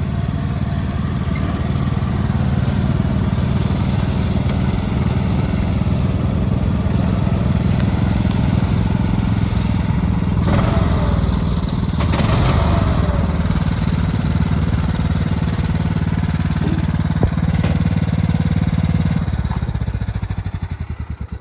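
Small riding lawn mower engine running steadily close by, then slowing and dying away near the end as it is shut off.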